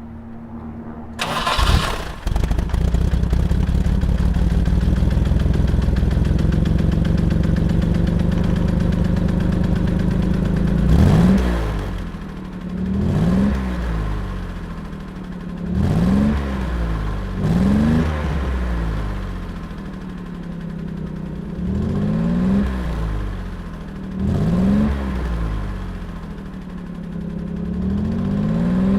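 A 1969 Jaguar E-Type roadster's 4.2-litre straight-six starts about a second in and runs steadily. From about the middle on, the throttle is blipped over and over, each rev rising and falling again every second or two.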